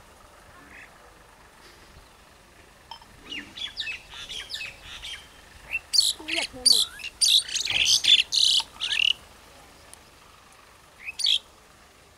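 Birds calling: a series of short, sharp, high calls starting about three seconds in, coming louder and thick and fast for a few seconds, then one more brief burst near the end.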